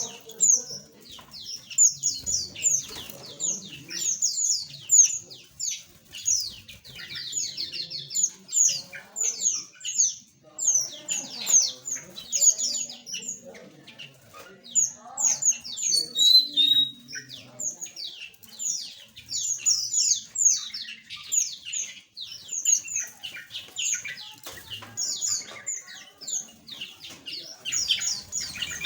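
A flock of small aviary birds chirping constantly: many quick, high, downward-sweeping chirps overlapping one another.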